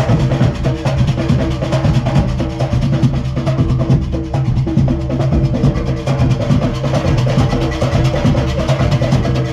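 Junkanoo percussion, cowbells and tom-tom drums, playing a fast, steady, driving rhythm.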